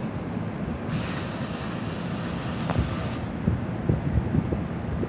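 NJ Transit Multilevel double-deck commuter train rolling past: a steady rumble of steel wheels on rail with a few sharp wheel clacks, and two short hisses, about a second and three seconds in.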